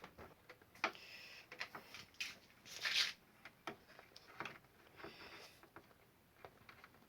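Scattered light clicks, taps and short scrapes from small plastic and metal parts of an air cooler fan motor being handled and fitted during reassembly; the loudest scrape comes about three seconds in.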